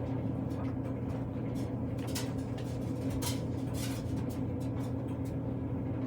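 A clothes dryer running with a steady low hum. Over it come scattered soft rustles and clicks of fabric oven mitts and pot holders being handled.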